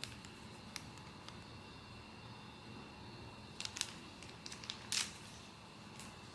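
Blind-box packaging being handled: a few light clicks and short crinkles, clustered a little past the middle, over a faint steady background.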